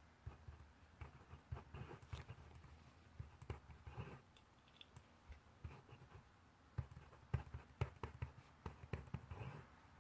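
Pencil writing on paper: irregular taps and short scratchy strokes as the tip meets the page, faint against a quiet desk.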